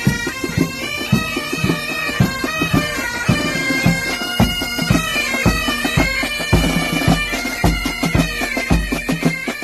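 Military pipe band playing: bagpipes carry a melody over their steady drone, with regular bass drum beats that grow heavier about halfway through.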